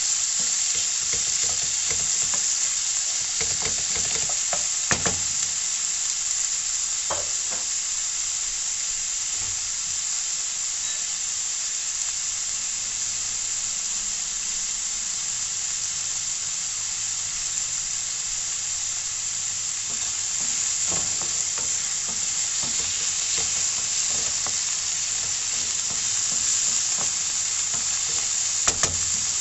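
Diced chicken breast and onion sizzling steadily in oil in a nonstick frying pan, with a few sharp clicks of a wooden spoon as it is stirred.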